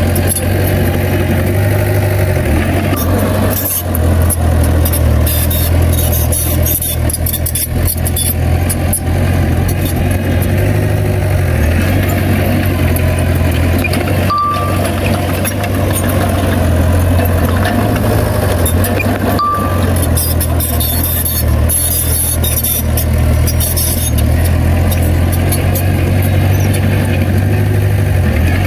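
Komatsu bulldozer's heavy diesel engine running steadily while working, with scattered metal clanks and rattles. Short high beeps sound three times, a few seconds apart.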